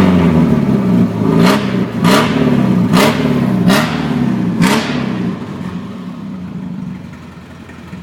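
Volvo 340 GL engine with an open exhaust and no muffler, revved in five short throttle blips, each with a sharp crack, then dropping back to a steady idle that grows quieter toward the end.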